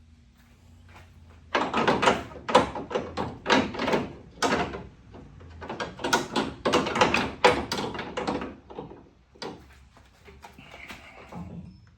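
A rapid run of sharp knocks and clattering for about six seconds, then a few scattered knocks, from tools and parts being handled during a car repair.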